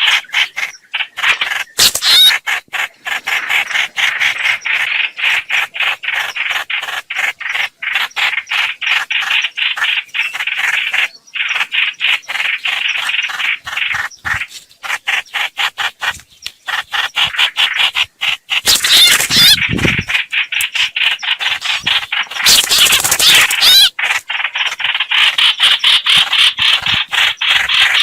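Recorded lure call of a bird: fast chattering notes repeated many times a second. Louder, harsher bursts come about two seconds in, again around 19 seconds, and around 23 seconds.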